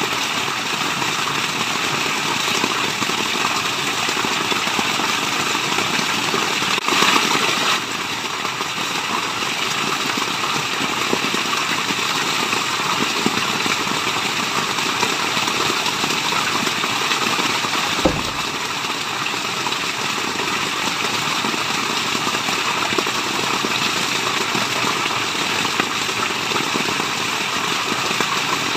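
Steady rushing water from a waterfall, an even, continuous noise. It swells briefly louder about seven seconds in, and a single low thump comes about eighteen seconds in.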